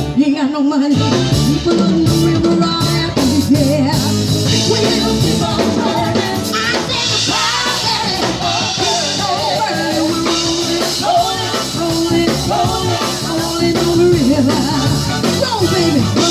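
A band playing an upbeat rock song: a singer's voice over drum kit and band instruments.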